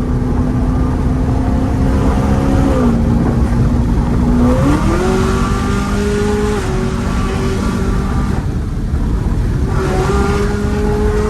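The V8 engine of an 800-horsepower Camaro ZL1 1LE is running under way at steady revs. Its pitch drops about three seconds in, climbs sharply near five seconds, eases off, and rises again near the end, the way it does through gear changes and throttle changes.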